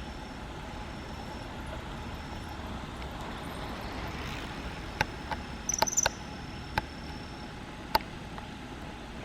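Steady outdoor background hum with a faint, thin high tone that comes and goes. In the second half come several sharp clicks, about five, and around six seconds in a brief cluster of high chirps.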